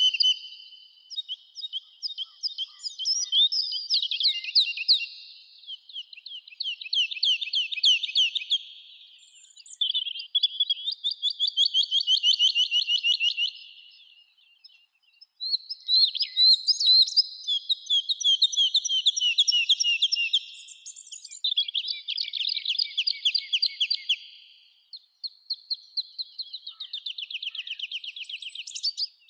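Songbirds singing in a summer forest: a run of high, fast trills of rapidly repeated notes, each phrase a few seconds long, with short pauses between and some phrases overlapping.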